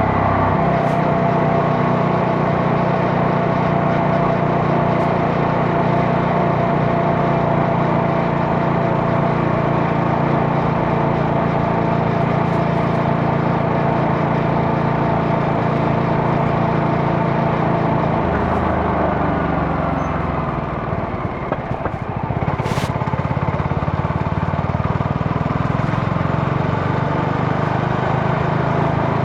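CFMoto 250NK single-cylinder engine running steadily under way, with wind and road noise. A little after two-thirds through the engine note drops and the level dips briefly, then the steady note picks back up.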